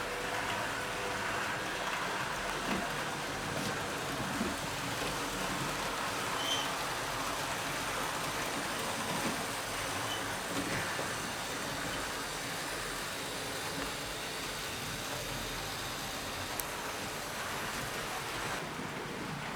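HO scale model train running along the layout's track: a steady rumbling rattle of wheels and motor, with a few small clicks.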